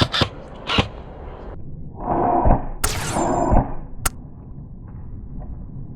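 Airsoft gunfire: a few sharp cracks in the first second, a muffled scuffling noise with a louder crack near the middle, and one more single crack about four seconds in.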